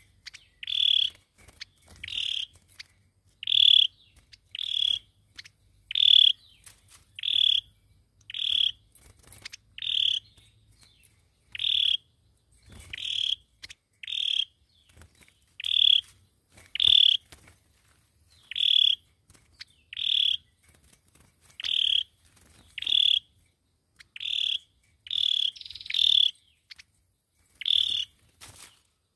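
Sâu dừa bird giving a short call note over and over, evenly spaced at a little under one a second, each note brief and high.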